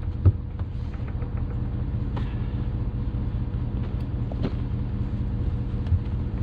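Truck engine running steadily at idle, a low drone with a few light clicks and knocks over it.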